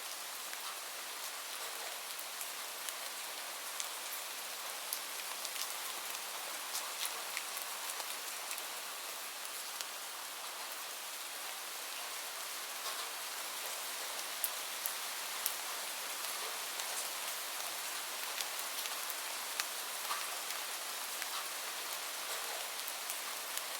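Steady rain hiss with scattered, irregular sharp pops and crackles from a wood fire mixed in.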